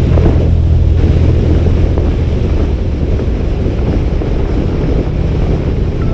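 Wind rushing over the camera microphone of a moving Harley-Davidson motorcycle, steady and loud, with the engine rumbling underneath.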